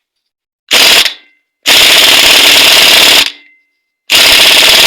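Pneumatic impact wrench hammering a nut tight on a Honda Shine motorcycle engine, in three bursts: a short one about a second in, a longer one of about a second and a half, and another near the end.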